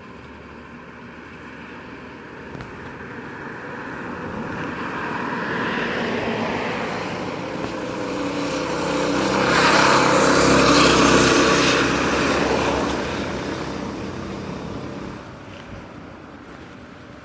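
Baja Warrior mini bike's small single-cylinder engine running as the bike passes by, growing louder, peaking about ten seconds in, then fading away.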